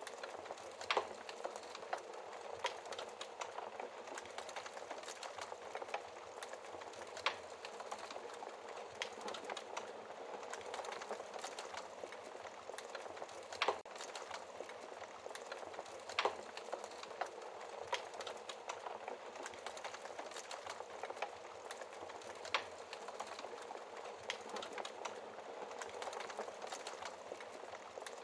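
Wood fire burning in a fireplace: a steady crackle with many small snaps and a handful of louder, sharp pops spread through.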